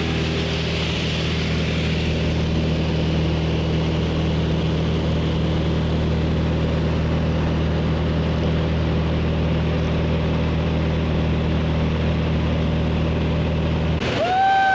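Propeller aircraft engine droning steadily. Near the end the drone cuts off abruptly and a steady high tone begins.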